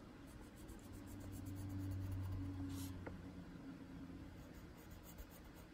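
Prismacolor coloured pencil shading on paper, a soft, steady scratching of the lead. A low hum swells and fades during the first few seconds.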